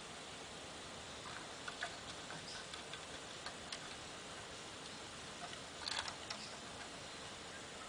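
Faint, scattered clicks and taps from a small pet bird over a steady hiss, with a brief flurry about six seconds in.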